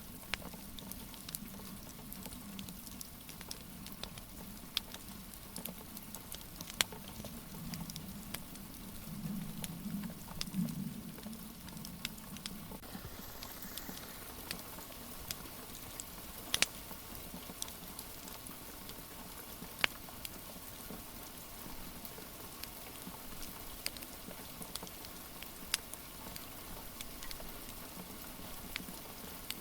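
Wood fire in a fireplace crackling, with scattered sharp pops, over a steady hiss of rain. A low rumble swells briefly about eight to twelve seconds in.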